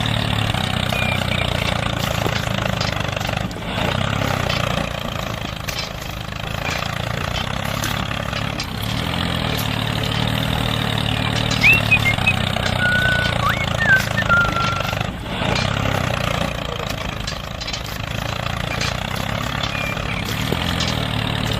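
Engine of a DIY mini tractor running steadily, with a few short high chirps about twelve to fourteen seconds in.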